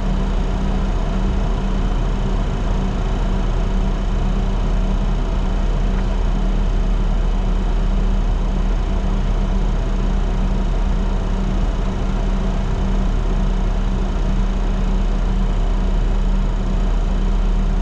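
Steady flight-deck noise of a Bombardier Challenger 604 jet in flight on approach: an even rush of air with a deep hum and a few steady tones, unchanging throughout.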